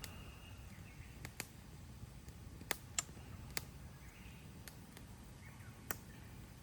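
Wood campfire burning, with sharp irregular crackles and pops, about nine, over a low steady rumble of the flames.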